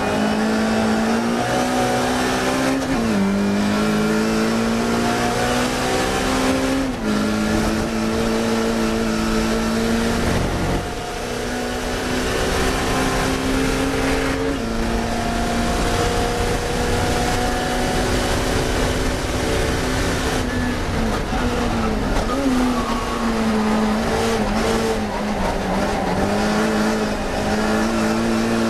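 Classic Mini race car's four-cylinder A-series engine at high revs on track. The pitch climbs through each gear and drops sharply at the upshifts several times, with a brief lift off the throttle about eleven seconds in.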